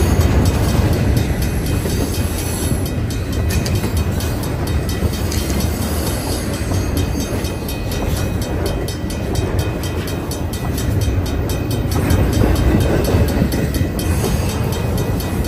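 Double-stack intermodal well cars of a freight train rolling past close by: a loud, steady rumble of steel wheels on the rails with rattling from the cars and containers.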